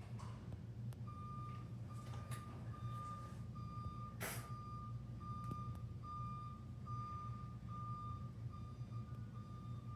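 An electronic beeper sounds one high tone over and over, about one and a half beeps a second, starting about a second in. Under it runs a steady low hum, and a sharp click comes about four seconds in.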